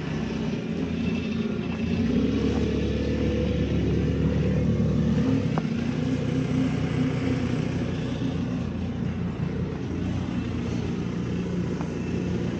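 A motor vehicle's engine running steadily. It swells about two seconds in and eases back a little after about five seconds.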